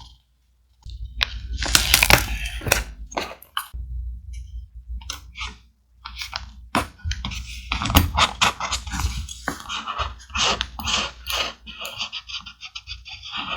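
Thick paper being handled up close for vintage journal scrapbooking: irregular rustling, crinkling and scraping strokes, with a short pause about half a second in and another near the middle.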